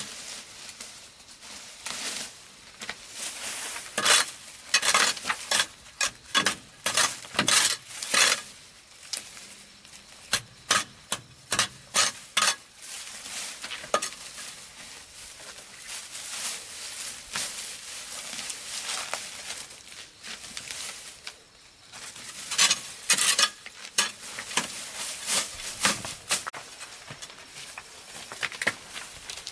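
A utensil scraping and clinking against a cooking pan in irregular clusters of quick strokes, with a quieter hiss between them.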